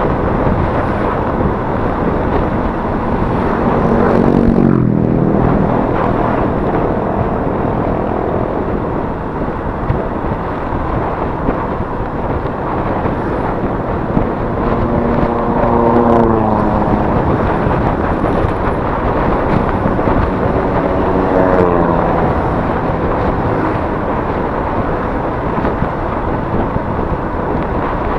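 Riding sound of a Yamaha Mio S 125 scooter, heard from a chest-mounted camera: a steady rush of wind and road noise over the engine. Three times, about 4, 15 and 21 seconds in, an engine note swells and slides down in pitch.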